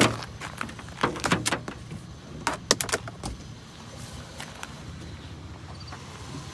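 A run of irregular knocks, clicks and light clatters from handling scrap by hand, loudest near the start and through the first three seconds, over a steady low engine hum.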